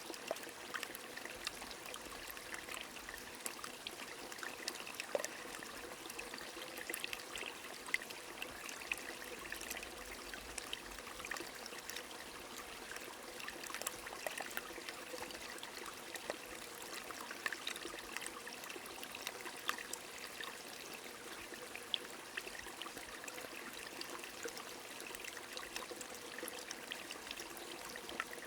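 A small stream running and trickling steadily, with rain falling: an even rush of water with scattered sharp drop ticks.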